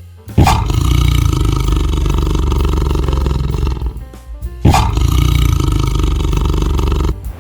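Two long, loud roars from a large animal, each starting suddenly and lasting about three seconds, the second beginning shortly after the first ends.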